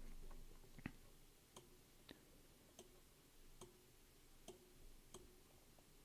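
Faint, sharp clicks of a computer mouse, one every half second to a second, unevenly spaced, over near silence.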